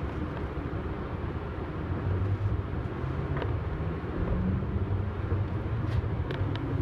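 Meitetsu electric train pulling away from a station, heard from the cab: a steady low running rumble with a faint motor whine rising slowly in pitch as it gathers speed, and a few sharp clicks.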